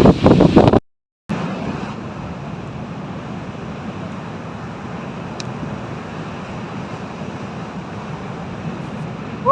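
Loud wind buffeting the microphone, cut off abruptly by an edit; after a brief silence, a steady even rushing noise with no distinct events.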